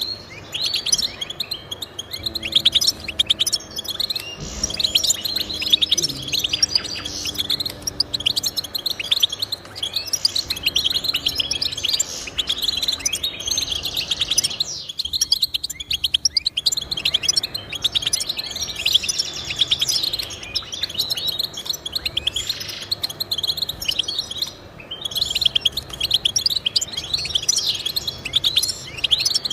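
Goldfinch song: a fast, continuous run of twittering chirps and trills, with a short pause about halfway through.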